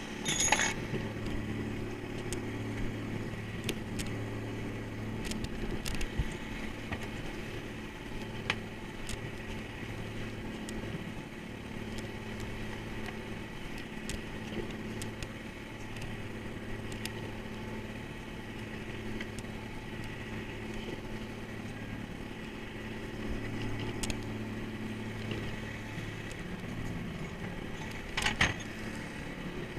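Fishing trawler's engine running steadily with a low drone, with a few faint clicks and knocks from work on deck.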